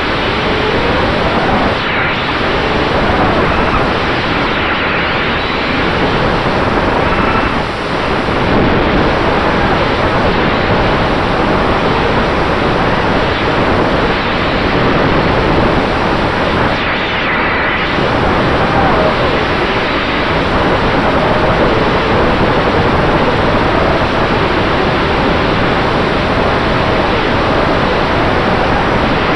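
FPV racing quadcopter with Dragonfly Hurricane 2207 2500KV brushless motors and Dalprop T5046C propellers, heard through its onboard camera's microphone: a loud, steady rush of wind and prop wash, with faint motor whines rising and falling as the throttle changes.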